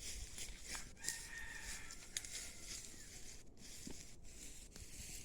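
A faint, drawn-out bird call, held for about a second and starting about a second in, with a single sharp click shortly after.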